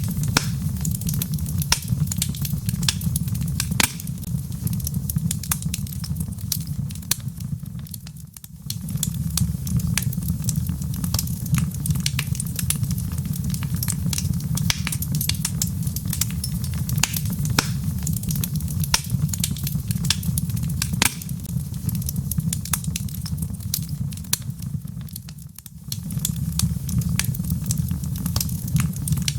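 Wood fire burning in a fireplace: a steady low rumble of flames with frequent sharp crackles and pops from the logs. The sound fades down briefly and comes back twice.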